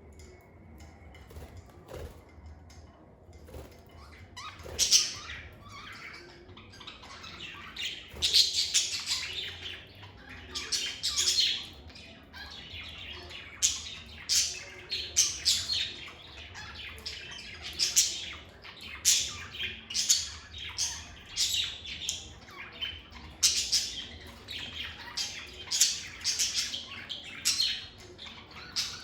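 Lovebirds chirping: many short, sharp, high-pitched calls in quick clusters, starting about four seconds in after a quieter opening.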